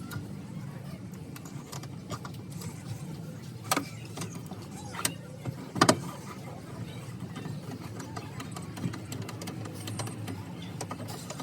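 Hand tools and parts knocking and clicking against metal while a radiator is fitted into a van, a few sharp knocks, the loudest about six seconds in, over a steady low hum.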